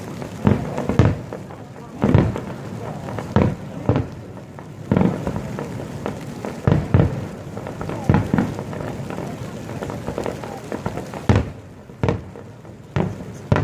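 Aerial fireworks bursting: a string of irregular sharp bangs and booms, sometimes several in quick succession.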